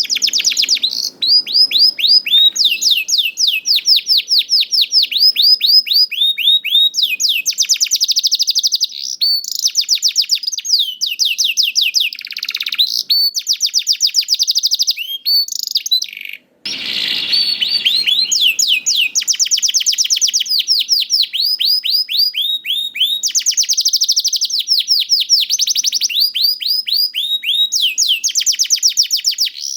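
Young domestic canary singing a long, loud song of rapid rolling trills, each a fast run of repeated high notes, broken once by a brief silence about halfway through.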